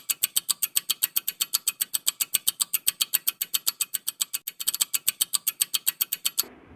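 Rapid, even ticking of a countdown-timer clock sound effect, about seven sharp ticks a second, stopping shortly before the end.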